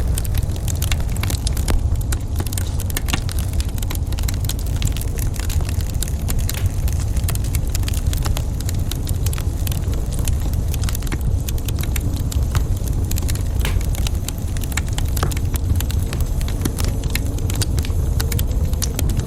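Wood fire burning in a fireplace, crackling with frequent sharp snaps and pops over a steady low rumble.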